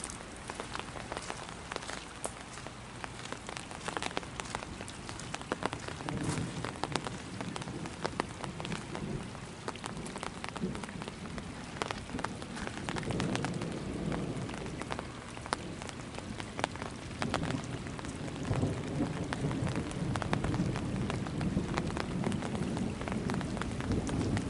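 Heavy rain falling, with close drops ticking sharply on hard surfaces over a steady hiss. From about six seconds in, a low rumble swells and fades several times and grows louder toward the end.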